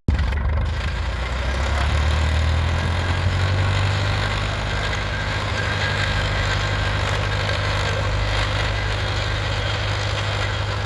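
Tractor engine running, its note climbing over the first few seconds as it speeds up, then holding steady.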